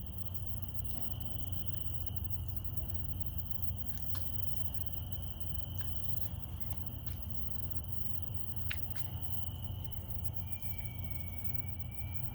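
Small garden water fountain running, its water splashing and dripping steadily into the basin. A few faint drip clicks sound through it.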